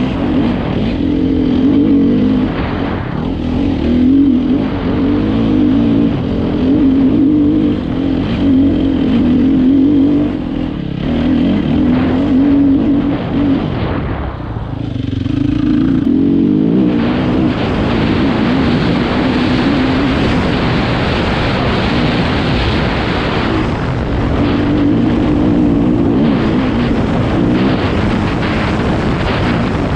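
2015 Sherco 300 SEF-R's single-cylinder four-stroke engine running under load as the trail bike climbs, the throttle opening and closing in surges, with a brief easing off about halfway through.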